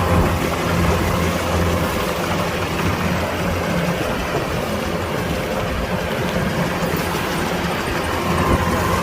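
Kubota DC-105X combine harvester running steadily: an even low engine hum with a faint steady higher whine over it.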